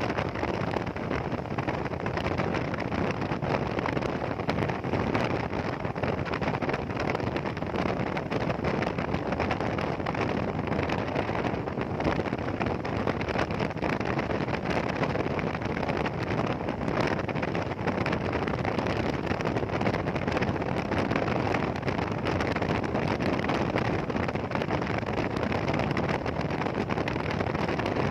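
Hero Xpulse 200 motorcycle on the move, with steady wind rushing over the microphone.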